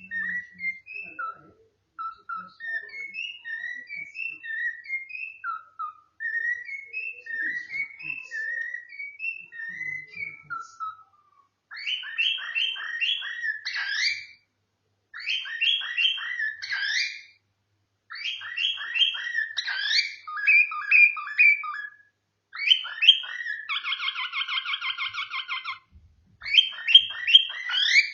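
Pet cockatiel whistling and singing. First come strings of short rising whistled notes, then faster warbling phrases broken by short pauses, with a rapid trill a little before the end.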